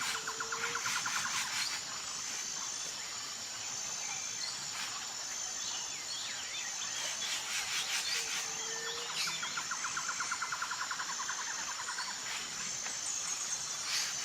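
Tropical forest ambience: insects keep up a steady high buzz with short breaks, a fast pulsing trill comes in twice, each time with a short low call, and birds chirp here and there.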